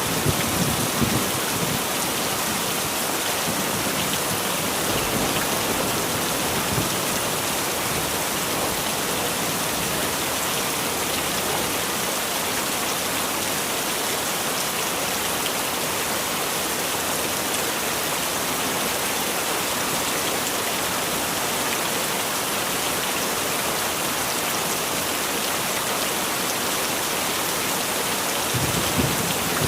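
Heavy rain falling steadily, an even hiss of many drops. Low rumbles of thunder come at the very start and again near the end.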